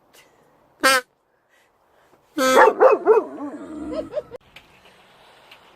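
German Shepherd barking: one short sharp bark about a second in, then a longer, louder cry from about two and a half seconds whose pitch wavers up and down.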